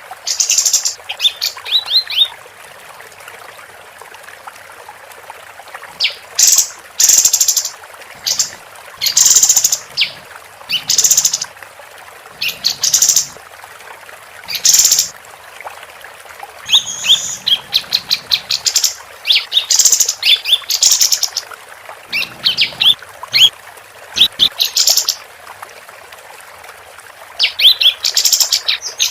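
Female kapas tembak songbird singing: bursts of rapid, loud high chirps and trills, each lasting about a second, repeated with short pauses between them.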